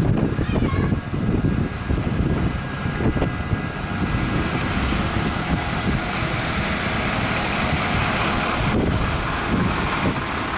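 Stagecoach bus 19089's diesel engine running with the abnormal engine noise the bus is recorded for, a steady low rumble throughout. Two brief high whistles come in the last couple of seconds.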